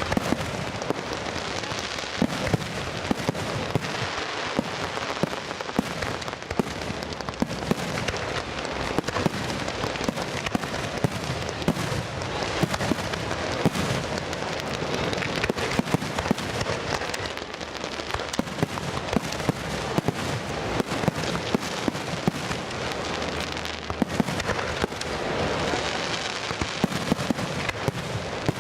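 Aerial fireworks display: a dense, continuous crackle with many sharp bangs throughout.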